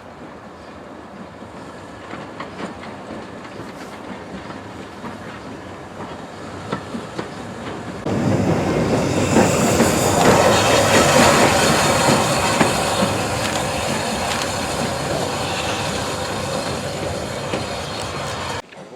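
Railway train running on the rails, its wheels clicking over the rail joints with some wheel squeal. About eight seconds in it suddenly becomes much louder, and it cuts off abruptly near the end.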